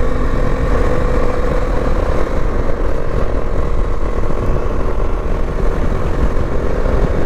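Bajaj Dominar 400 motorcycle's single-cylinder engine running at a steady road speed: a constant low rumble with a faint steady hum over it.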